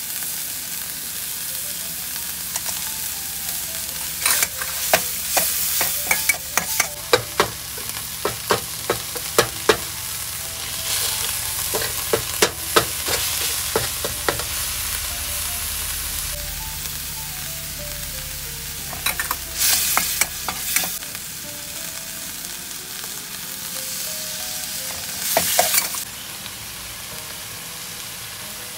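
Red curry paste with garlic and onion sizzling in a wok while a metal spoon stirs it and scrapes against the pan. The scraping comes in clusters of sharp clicks: a long run a few seconds in, a short one around twenty seconds, and another near the end.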